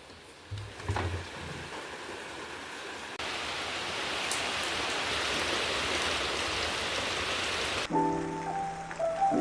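Steady rain, a soft even hiss that grows louder about three seconds in, with a few faint low knocks near the start. Near the end, gentle lo-fi music with held piano-like chords comes in.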